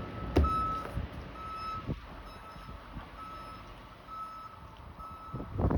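A vehicle's reversing alarm giving a repeated single-pitch beep over and over, with wind rumbling on the microphone.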